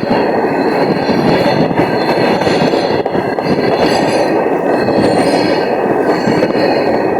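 Freight train of petrol tank wagons rolling past: a loud, steady rumble of wheels on rails, with thin high wheel squeals coming and going.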